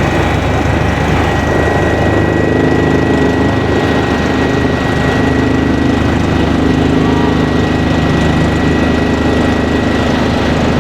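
Kawasaki BK 117 B-2 twin-turbine helicopter in flight: a steady, loud drone of rotor and engines with a thin constant high whine over it.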